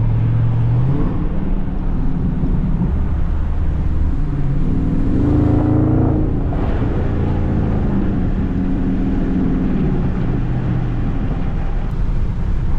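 Dodge Charger Scat Pack's 6.4-litre HEMI V8 under way, its engine note climbing in pitch to a peak about six seconds in, dropping back, then rising again before settling.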